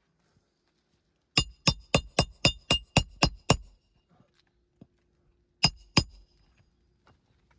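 Hammer blows on metal: a quick run of nine ringing strikes, about four a second, then two more strikes close together a couple of seconds later, the kind of hammering used on roofing nails during a shingle repair.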